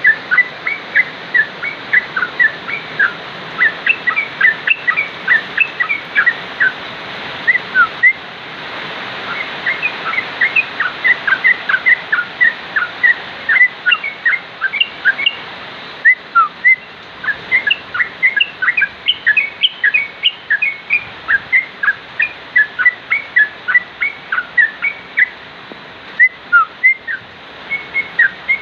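Yellow-vented bulbul (trucukan) singing: a long run of short, bubbly whistled notes, a few a second, with brief pauses about 8 and 16 seconds in, over a steady hiss.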